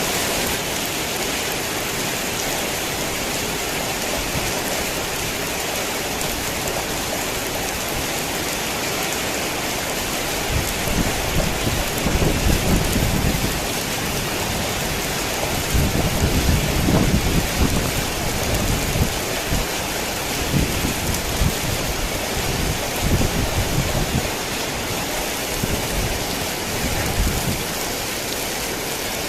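Heavy rain falling with a steady hiss, with thunder rumbling low and irregularly from about ten seconds in, loudest near the middle and dying away near the end.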